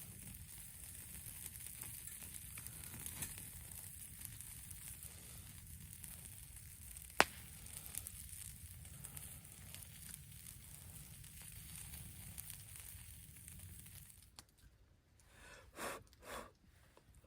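Steady sizzling of food frying over a wood campfire, with one sharp snap about seven seconds in. Near the end the sizzle drops away and there are two short rustles.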